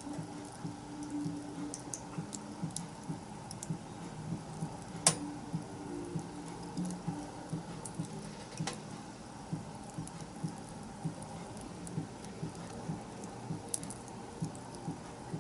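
Wood bonfire crackling, with a steady run of small ticks and clicks and a sharp loud pop about five seconds in, then a smaller pop near nine seconds.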